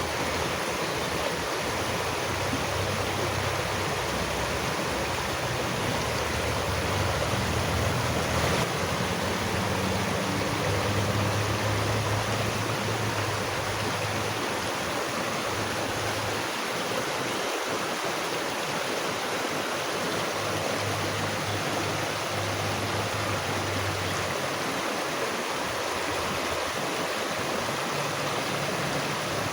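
Steady rushing of flowing water, like a stream, with a low rumble underneath that swells and fades.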